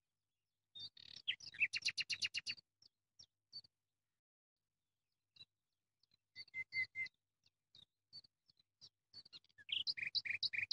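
Small birds chirping: a quick run of rapid chirps about a second in, scattered single chirps through the middle, and another quick run near the end.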